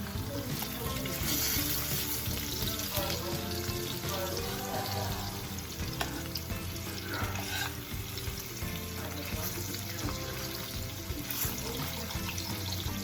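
Thin-sliced marinated pork tocino sizzling as it fries in a pan, with a few sharp clicks of a utensil stirring it.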